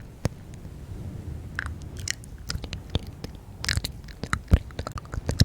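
Close-miked ASMR mouth sounds: irregular wet clicks and smacks, several a second, with a few brief breathy hisses.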